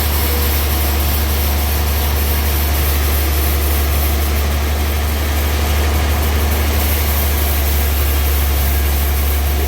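Sawmill engine running steadily, a constant low drone with no clear rise or fall.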